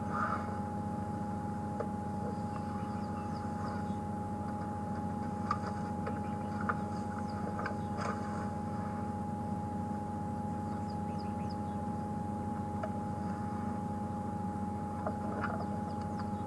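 Safari vehicle's engine idling: a steady low hum with a constant higher whine over it. Scattered faint short clicks and small high chirps come through now and then.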